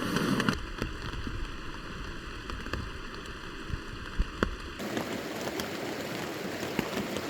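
Steady rain falling on a tent, with scattered louder drops tapping. The sound changes abruptly about half a second in and again near five seconds.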